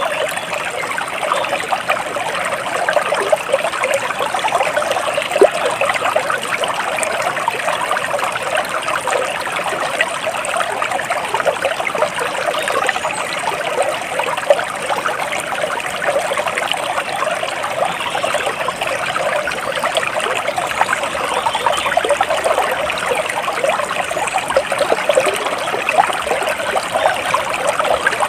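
Stream water flowing and trickling steadily over stones, an even babbling rush.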